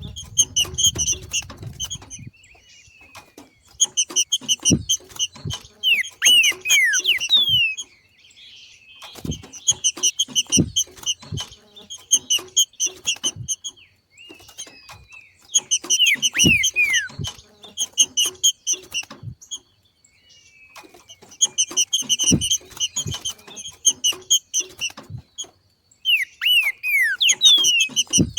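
Green-winged saltator (trinca-ferro) giving its 'macheado' call: bouts of rapid, scratchy repeated notes, each lasting a few seconds and coming back about every six seconds, some ending in quick falling whistles, with low knocks mixed in.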